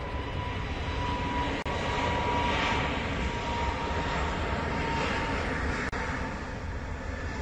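Jet engines of a departing Airbus A320, a dense steady roar with a high whine, swelling a couple of seconds in. The sound cuts out for an instant twice.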